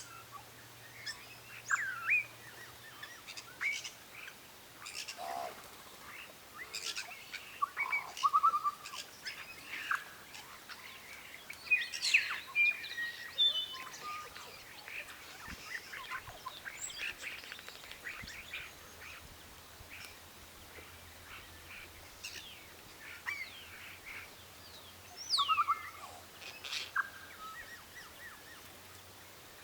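Birds chirping and calling: many short notes and quick pitch glides, some falling, in scattered bursts.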